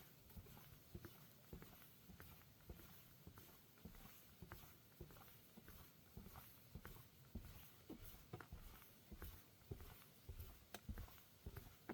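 Faint footsteps walking along a path at about two steps a second.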